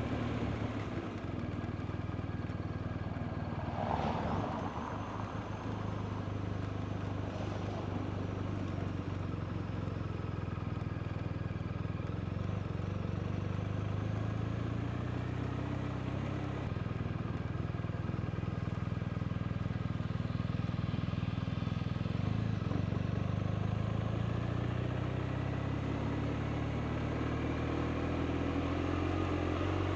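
BMW R 1250 RT's flat-twin boxer engine running steadily under way, with wind and road noise; a brief rush of noise about four seconds in, and the engine pitch rises in the last few seconds as it accelerates.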